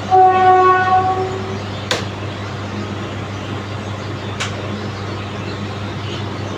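Train horn blowing one steady note for about a second and a half at the start, over a constant low machine hum, with two sharp clicks later on.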